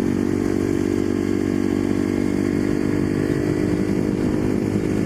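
Husqvarna 510SM supermoto's single-cylinder four-stroke engine running at a steady pitch while the bike is ridden.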